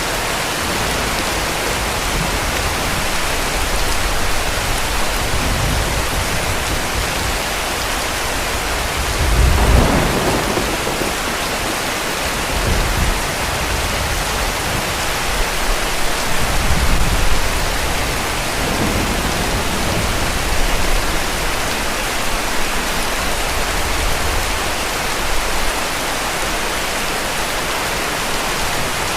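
Heavy rain falling steadily, with rumbles of distant thunder. The strongest rumble comes about a third of the way in, and weaker ones follow later.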